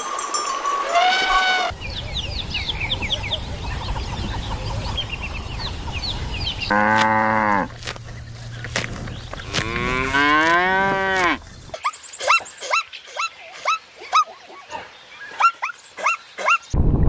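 A cow mooing twice in long calls, with birds chirping in the background. A run of short, high bird chirps follows near the end.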